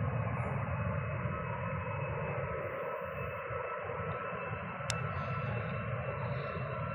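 Steady, distant rumble of a Boeing 737 MAX 8's CFM LEAP-1B jet engines at takeoff power as the airliner rolls down the runway, with a faint steady high whine on top.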